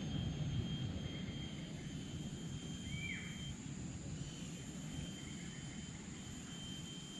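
Rainforest ambience: a steady low rumble under a continuous high-pitched insect drone, with one short falling bird chirp about three seconds in.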